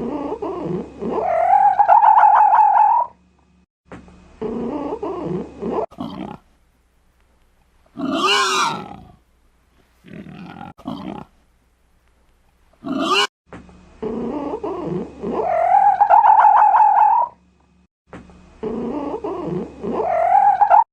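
Animal calls: a series of loud, drawn-out calls that rise and then hold a steady pitch, with shorter calls and silent gaps between them. The same call sequence repeats later on.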